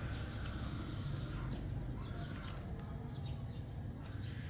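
Small birds chirping in short, high, repeated calls over a steady low rumble.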